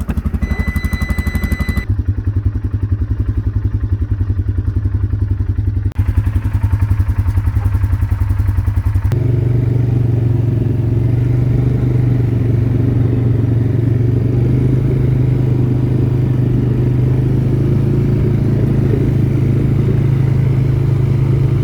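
ATV engine running under way, a steady, pulsing engine drone with road noise; from about nine seconds in the engine note is stronger and steadier.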